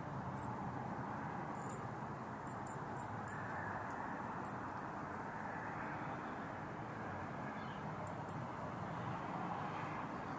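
Steady outdoor background noise with scattered short, high chirps from small birds, several in quick succession about two and a half to three and a half seconds in.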